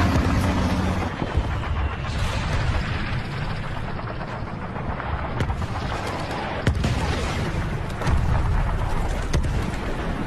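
Battlefield sound of explosions and artillery fire: a continuous heavy rumble with a few sharp shot-like cracks, one about the middle and others later on.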